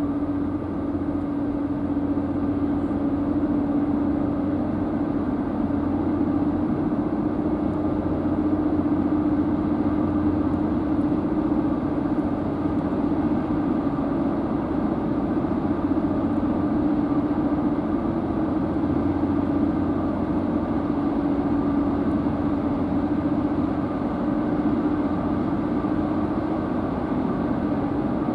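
High-speed car ferry's engines running steadily, a constant drone with a low hum and a stronger mid-pitched tone that hold even throughout.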